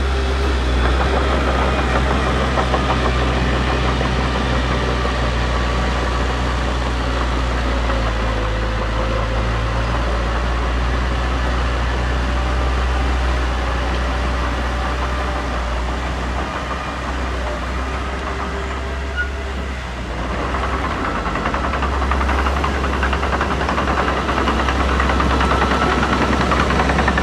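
Diesel engine of heavy earthmoving machinery running with a low, clattering rumble. It eases off a little about two-thirds of the way in, then picks up again.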